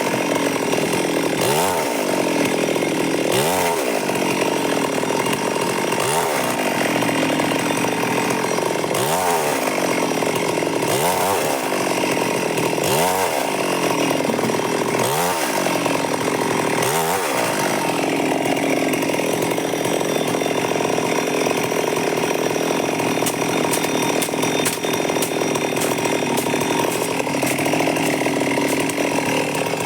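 Stihl MS382 two-stroke chainsaw running, its engine speed rising and falling about every two seconds, then running more steadily for the second half.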